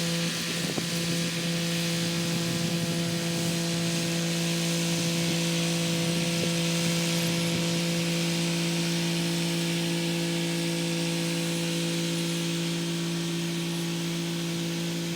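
Kubota SL35 tractor's diesel engine running steadily, with the rotary tiller working: a constant, even-pitched drone and a few light knocks about a second in.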